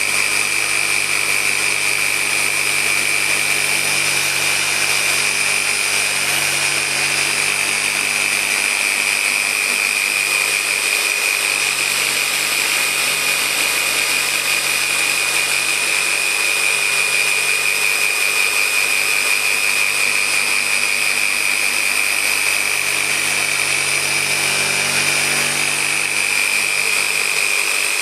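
Electric car-paint polisher, a random orbital machine with a rotary mode, running steadily with a pad and polish on the paint, giving a constant high whine.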